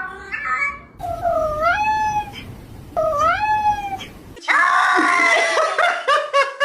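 Cats meowing: a couple of short calls, then two long drawn-out meows that rise and fall in pitch, each about a second long. At about four and a half seconds it cuts to a louder, noisier stretch of rapid, overlapping calls.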